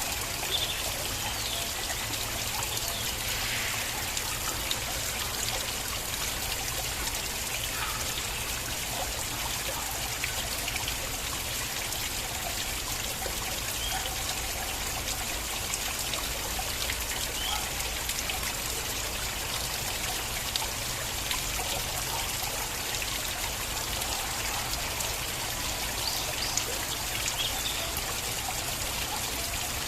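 Stream water flowing steadily, with small trickles and splashes over a continuous rush.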